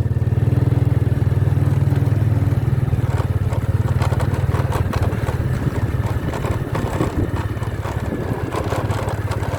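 Motorcycle engine running while the bike is ridden, a steady low drone, with many short clattering knocks over it.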